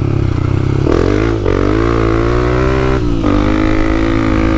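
Dirt-bike engine running under throttle, the note climbing about a second in and breaking off briefly twice, at about one and a half and three seconds in.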